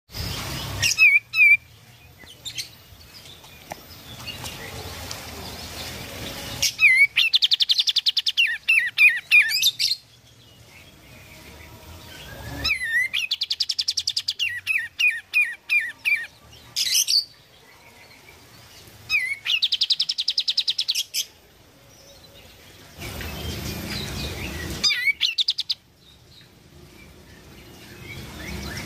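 Kapas tembak bulbul singing in lively bouts of rapid, fast-repeated high notes, with short pauses between the bouts.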